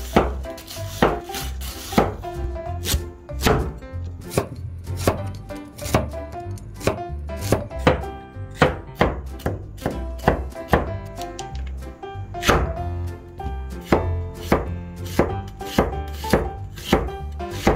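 Kitchen knife chopping on a cutting board, sharp strokes about twice a second, not evenly spaced.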